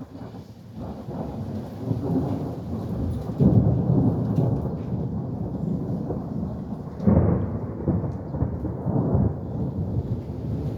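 Thunder rolling in a long, deep rumble that swells about a second in and surges louder twice, with rain falling.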